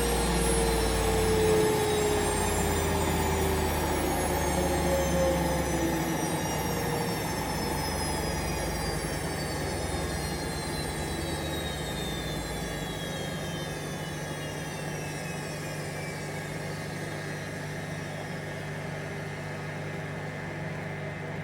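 Hoover Vision Dynamic washing machine drum and motor spinning down from a fast spin: a whine falls steadily in pitch while the sound slowly eases, and a low rumble stops about 13 seconds in.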